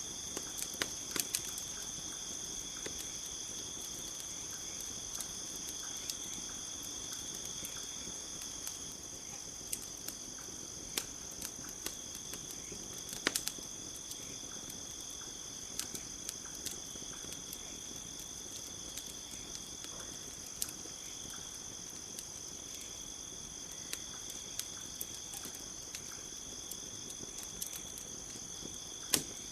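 Campfire crackling, scattered sharp pops and snaps with a few louder ones, over a steady high-pitched chorus of crickets.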